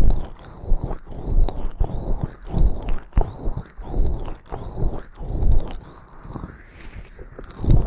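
Close-miked rhythmic rubbing and scraping right at the microphone, about one or two strokes a second, with small sharp clicks, as in ASMR ear cleaning on a microphone.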